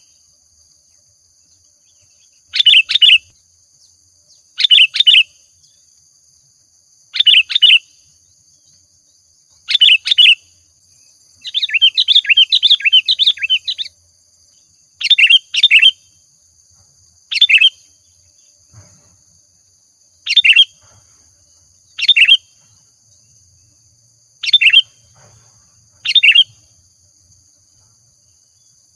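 Sooty-headed bulbul singing: short, bright, bubbling phrases repeated about every two seconds, with one longer chattering run of song near the middle.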